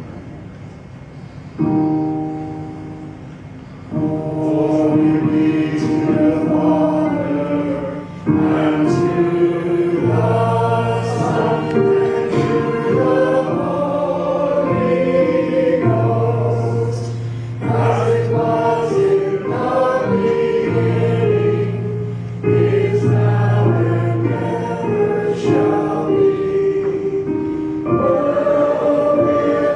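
A choir singing a hymn together with instrumental accompaniment. It starts with a chord about two seconds in, and the full singing comes in at about four seconds.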